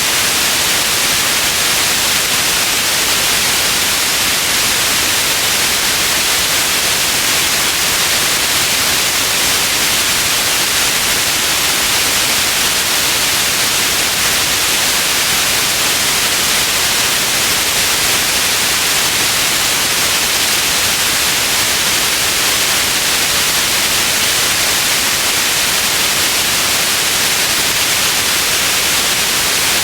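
Steady white noise, a constant even hiss with no change, brightest in the upper range.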